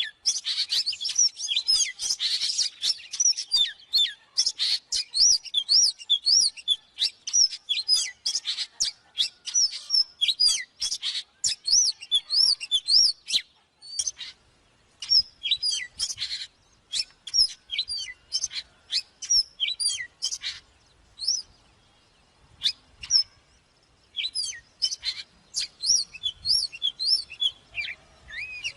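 Oriental magpie-robin singing: a fast, varied string of short whistled notes and chirps that swoop up and down, broken by a few brief pauses.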